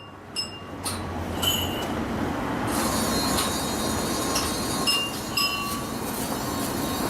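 Mechanism of a Kinoshita Seisakusho ball-machine automaton clock, run down and unrepaired, running steadily with a low hum, overlaid by irregular short, high metallic tings and clinks.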